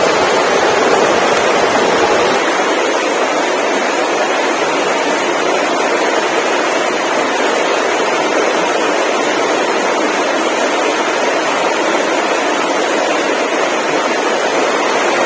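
Steady, loud rushing noise with no distinct tones or separate events, easing slightly about two seconds in.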